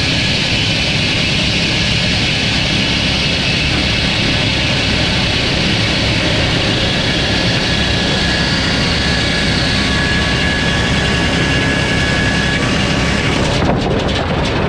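Sawmill running through a cut in a log: a loud, steady mix of engine and saw-blade noise, with a faint steady whine through the middle. Near the end the high hiss drops away and the sound changes.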